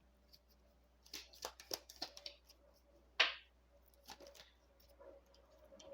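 Paper Lenormand cards being handled as the next card is drawn and laid out: a run of faint clicks and rustles, with one louder swish about three seconds in.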